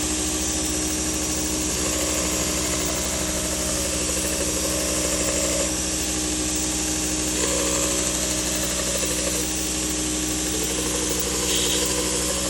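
Toolcker 1x30 belt sander running with a 400-grit Trizact belt: a steady motor hum under an even grinding hiss, as a curved skinning-knife blade is held lightly against the slack belt. The grinding note shifts over a few stretches as the blade is passed along the belt.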